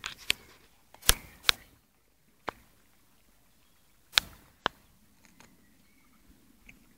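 A dog crunching a raw carrot: about seven sharp cracks at uneven intervals, the loudest about a second in and about four seconds in.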